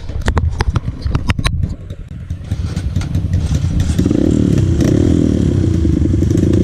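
Dirt bike engine: a run of sharp clattering knocks in the first second and a half, then the engine revving up and down, louder from about four seconds in.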